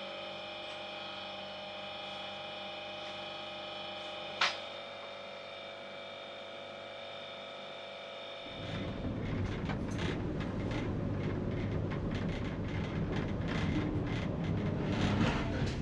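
A steady hum with several tones inside a train carriage, with a single click about four seconds in. About eight seconds in this gives way to the louder rumble and rattle of the train running along the track.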